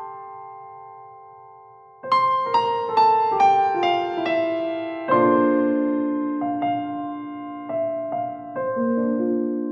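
Gentle solo piano background music: a held chord fades out, then about two seconds in a run of notes steps downward, followed by sustained chords and scattered single notes.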